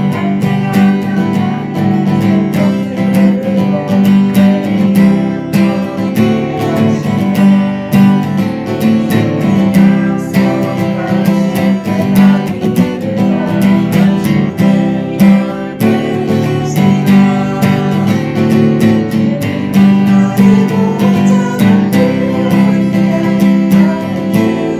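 Strummed acoustic guitar accompanying a worship song.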